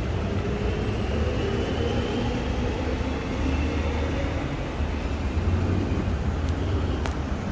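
A train pulling out of the station: a steady low rumble with a faint high whine.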